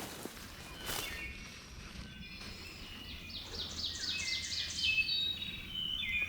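Small songbirds singing, one with a quick run of repeated falling notes in the middle. A brief sharp rustle or click about a second in.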